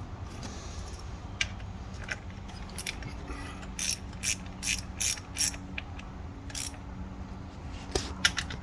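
Ratchet wrench clicking as it is swung back and forth to tighten a coil pack bolt, in scattered single clicks with a quicker run of clicks near the middle.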